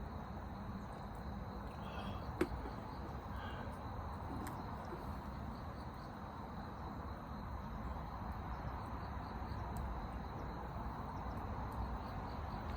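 Campfire crackling: a steady low rumble with faint scattered ticks and one sharp pop about two and a half seconds in.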